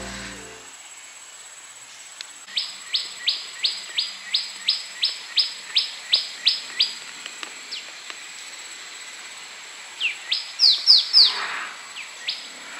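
A bird calling: a run of about a dozen quick falling notes, roughly three a second, then after a pause a louder cluster of notes near the end.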